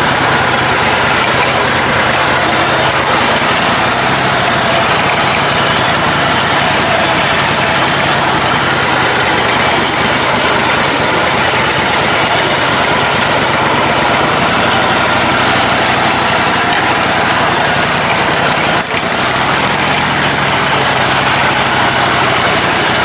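Lifted, modified lawn tractor's engine running steadily under load as it drives along a rough trail, a loud continuous mechanical noise with no break.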